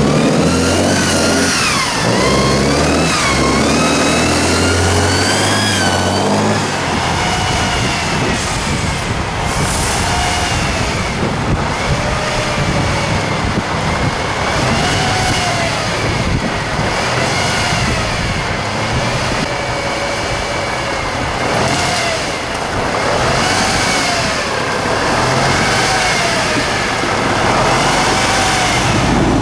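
Tatra 8x8 truck's turbo diesel engine under load off-road, revving up over the first few seconds. After that the revs repeatedly rise and fall about every two seconds as the throttle is worked.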